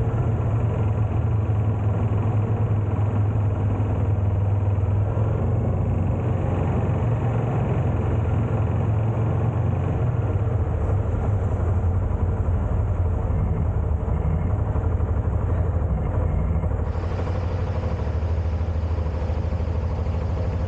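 Honda Transalp motorcycle's twin-cylinder engine running steadily, a constant low drone with road and wind noise over it. A little more hiss comes in near the end.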